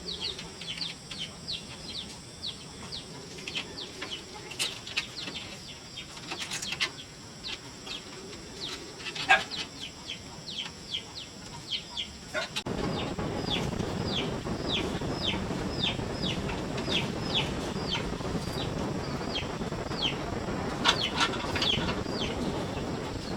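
A bird chirping over and over, short high notes that fall in pitch, about two or three a second, over a faint steady insect hum. About halfway through, a steady hiss comes in suddenly and stays.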